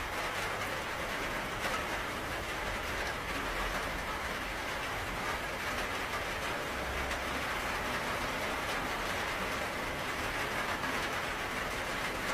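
Steady rainfall: an even hiss of rain with faint scattered drop ticks and a low rumble underneath.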